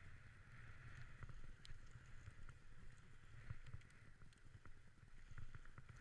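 Dog sled gliding over snow: a faint, steady swish of the runners with a low rumble and a few small scattered clicks.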